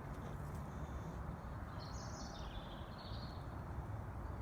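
Steady outdoor background noise with a small bird chirping briefly about two seconds in and again just after three seconds.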